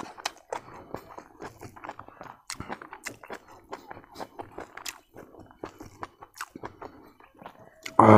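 A person chewing a mouthful of duck biryani close to the microphone: irregular wet mouth clicks and smacks. A short, loud voiced sound with a falling pitch comes right at the end.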